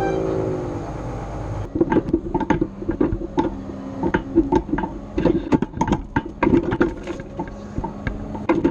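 A loader's engine note drops in pitch and fades in the first second or so; then, from a sudden change under two seconds in, a run of irregular sharp clicks and knocks over a low steady hum.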